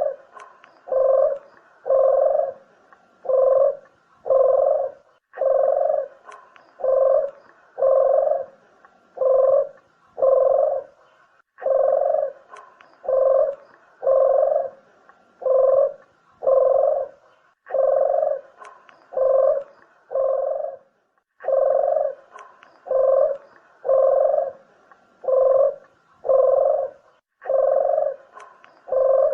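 Barbary dove (burung puter) cooing: deep coos about one a second, in runs of about five notes with short pauses between the runs, repeating steadily.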